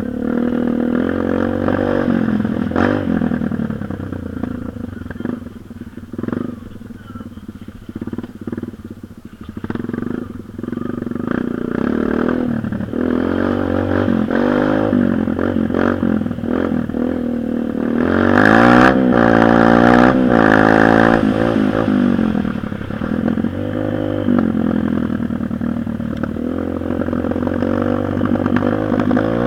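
Dirt bike engine running and revving up and down, quieter for a stretch early on, with its highest, loudest revving about 18 to 21 seconds in.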